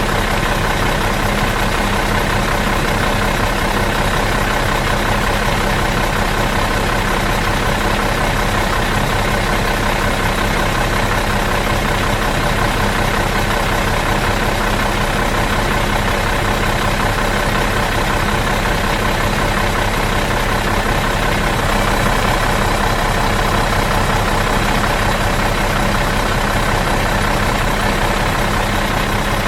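Bus engine idling out of gear, a steady, even drone that does not change.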